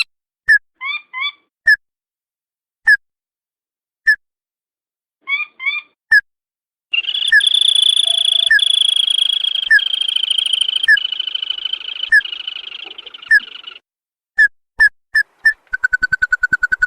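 Recorded crake calls played as a lure: sharp, short upslurred notes, singly and in pairs at irregular intervals, then a steady high churr for about seven seconds with the notes still sounding over it, and a fast run of notes near the end.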